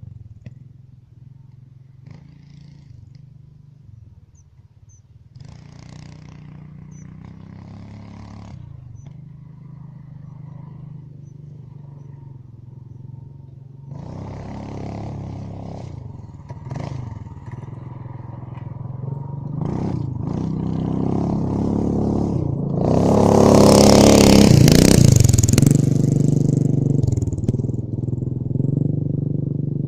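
Mini bike's small engine running. It is low and steady at first, then revs up and down repeatedly and grows louder, loudest a little past two-thirds of the way through.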